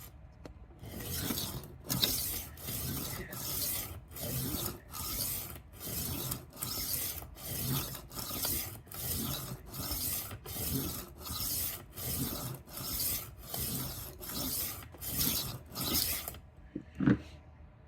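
Rolling knife sharpener's abrasive disc rasping along the edge of a 12-inch Henckels chef's knife in a steady run of about twenty strokes, a little over one a second, to raise a burr. It ends with a single knock.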